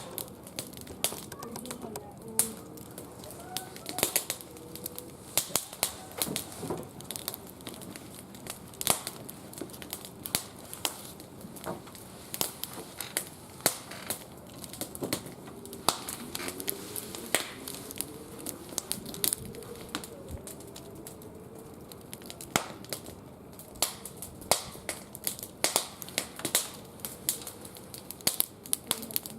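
Wood fire burning in a barbecue grill, crackling with frequent irregular sharp pops.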